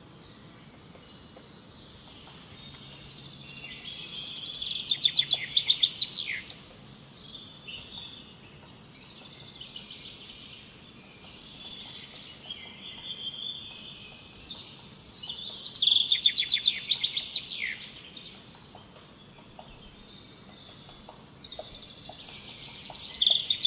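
Birdsong: three long songs, each building into a rapid trill that ends on a falling note, with softer warbling phrases between them.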